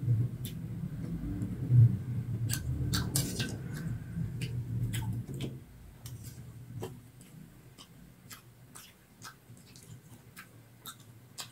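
Hard raw rice being chewed and crunched, with steel spoons clicking and scraping on stainless steel plates. The chewing is louder for about the first five seconds, then only scattered sharp clicks remain.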